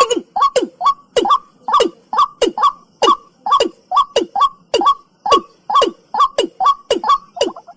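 Watercock calling: a rapid, regular series of short calls, about two to three a second, each dropping in pitch.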